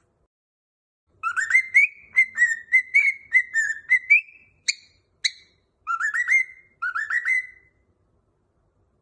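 Cockatiel whistling a tune in short rising notes: a quick run of notes, two sharp high chirps, then two more rising phrases.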